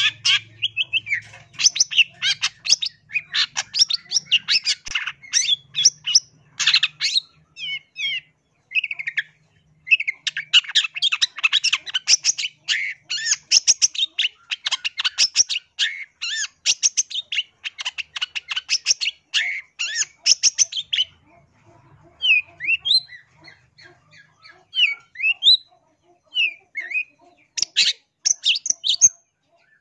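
Long-tailed shrike (cendet) singing: fast runs of varied, scratchy chattering notes, with a short break about a third of the way in. In the later part it drops to scattered single calls for a few seconds, then breaks into another fast run near the end.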